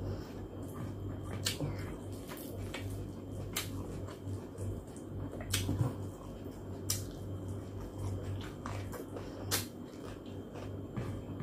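Close-miked eating of lechon pata by hand: chewing with irregular wet mouth smacks and sharp clicks, about one or two a second, over a steady low hum.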